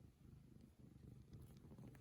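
Domestic cat purring: a faint, steady, rapidly pulsing low rumble.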